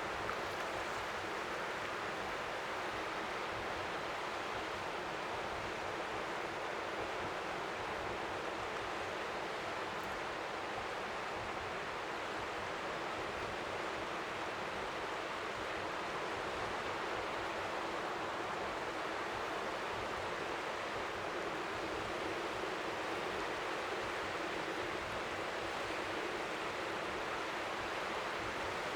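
Steady, even rushing noise of strong wind by the sea, like white noise, with gentle waves lapping on the shore only faintly beneath it.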